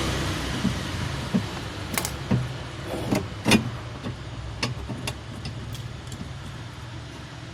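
A vehicle's engine and road noise fading away, with a scattered series of light clicks and knocks, the loudest about halfway through.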